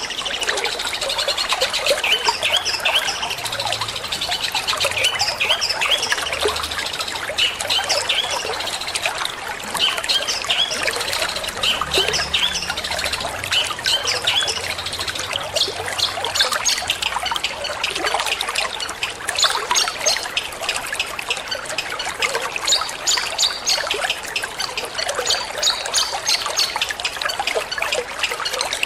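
Water trickling steadily, with a long-tailed shrike (cendet) singing over it in a fast, continuous string of short chirping notes.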